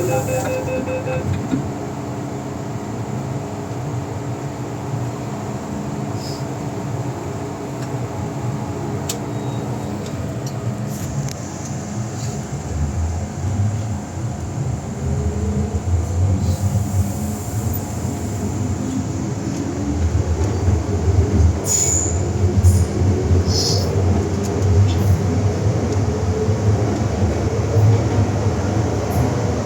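MTR M-Train on the Island Line pulling away and running through the tunnel, heard from inside the car: wheel-on-rail rumble and a rising traction-motor whine as it gathers speed, louder in the second half, with some wheel squeal. A rapid beeping tone, the door-closing warning, ends about a second in.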